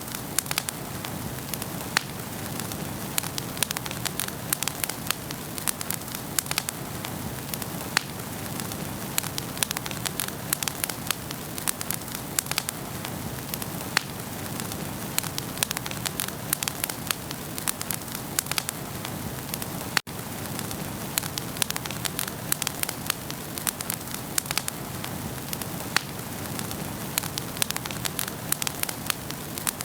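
Wood fire burning in a fireplace: a steady hiss with frequent sharp crackles and pops. There is a split-second gap about two-thirds of the way through.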